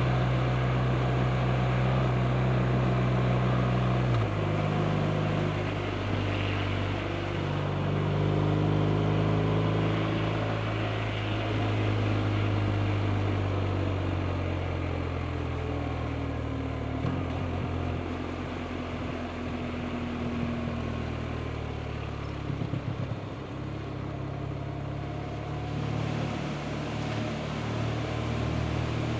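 BMW R 1250 RT's boxer twin engine running under way. Its note steps about four seconds in and then climbs slowly, as in a gear change followed by acceleration. It turns quieter from around the middle and picks up again near the end.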